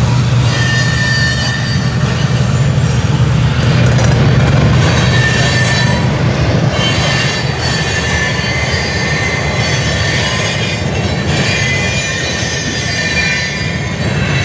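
Kansas City Southern freight train rolling past: a steady low rumble from the cars, with thin high squeals from the wheels coming and going over it.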